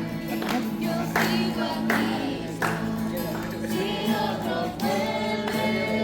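A group singing a Christian worship song in Spanish over held low accompaniment notes, with a sharp stroke about every three-quarters of a second keeping the beat.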